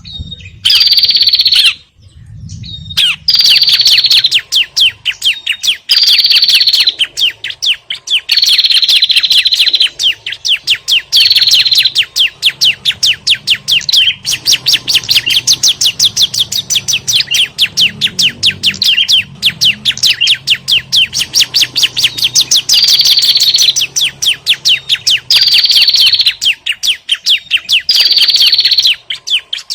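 Recorded agitated chattering of prenjak and ciblek (small prinias), played as a bird-trapping lure: a fast, unbroken run of sharp repeated chip notes, several a second, broken every second or two by a short high buzzy phrase. A faint low hum runs beneath.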